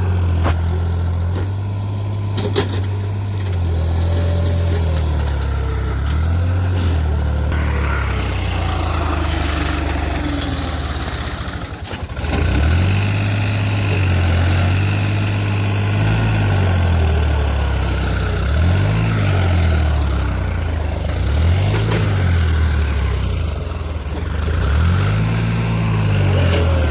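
Diesel engine of a 585 4WD tractor running hard under load, its pitch rising and falling as it is revved up and let back several times in the second half, straining to pull a trolley stuck in a wet field.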